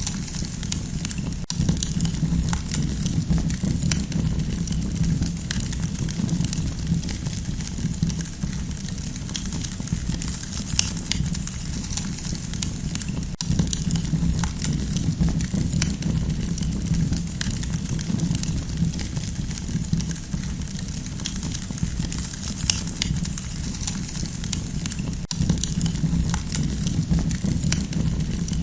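Campfire burning with steady crackling: many small sharp pops over a low, even rumble of flame.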